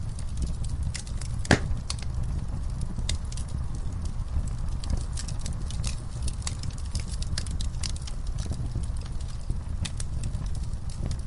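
Wood fire crackling, with scattered sharp pops and one louder pop about one and a half seconds in, over a low steady rumble.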